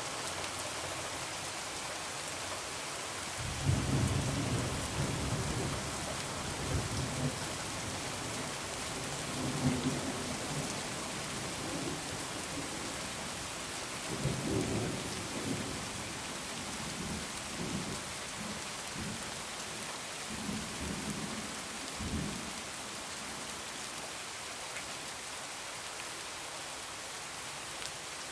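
Heavy rain falling steadily, with thunder rumbling in several deep rolls from a few seconds in until about two thirds of the way through, loudest near the start of the rolls.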